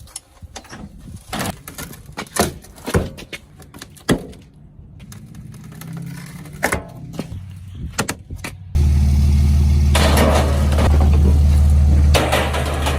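Scattered clicks and knocks, then nearly nine seconds in an engine suddenly comes in loud, running steadily with a deep hum.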